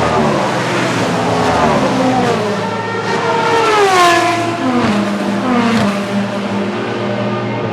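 Race car engines passing trackside at high revs, their pitch sliding down as they go by. The loudest pass comes about four seconds in, over a steady low engine drone.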